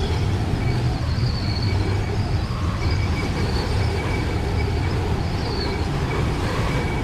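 Steady low rumble of blizzard wind, with faint thin high whistling tones coming and going.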